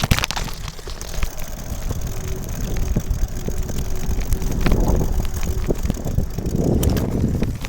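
Fatbike being ridden: wind buffets the microphone over the tyres' rumble on the track, with scattered rattling knocks and a faint steady whine through the middle.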